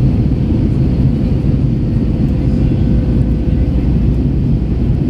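Airbus A321 cabin noise during the climb-out after a go-around: a steady low rumble of engines and airflow, with a faint steady hum.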